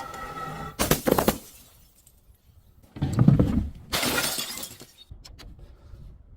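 Glass bottles shattering: a short crash about a second in, then a louder, heavier crash about three seconds in, followed by crunching and tinkling of the pieces and a few small clinks near the end.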